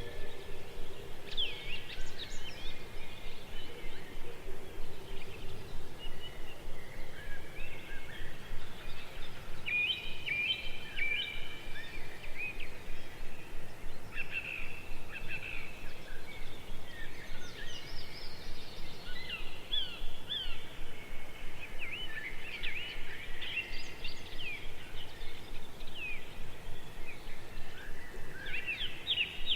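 Several birds chirping and calling in quick short notes over a steady background hiss.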